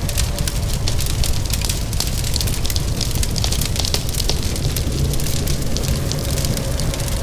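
Wood fire crackling in a fireplace, with many quick, irregular snaps, over a steady hiss of rain and a low, even rumble.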